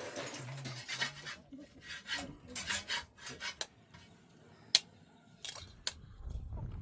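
Irregular rasping, scraping strokes with a few sharp clicks, one louder click about halfway through.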